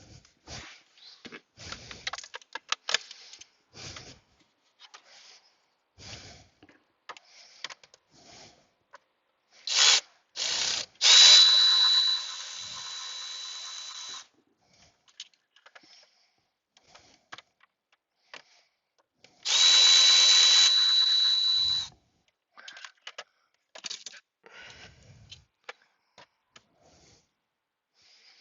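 Power drill running in two short bursts of a few seconds each with a steady high whine, the first about ten seconds in and the second near twenty seconds. Between the bursts come scattered clicks and knocks of parts being handled.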